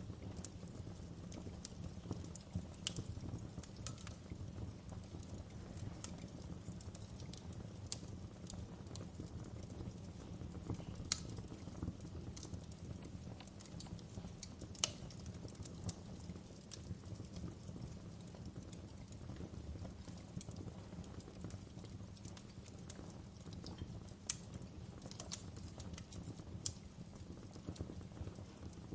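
Fireplace fire crackling: a steady low rumble with irregular sharp pops and snaps scattered through it, two of them louder near the middle.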